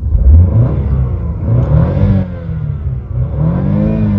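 A parked car's engine is revved twice, its pitch climbing and falling back each time, with the second rev peaking near the end.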